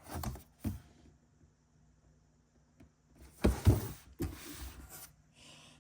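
Cardboard pieces being handled: a few short rustles and scrapes, the loudest cluster about three and a half seconds in, with a quiet stretch before it.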